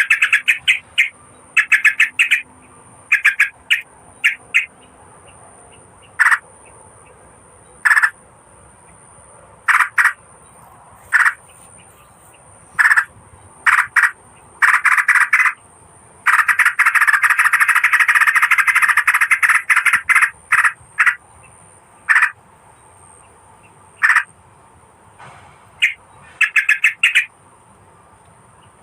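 Merbah kapur bulbul lure call: bursts of rapid, chattering notes, repeated in short groups with gaps between them, and one longer run of calling past the middle. A thin steady high whine runs underneath throughout.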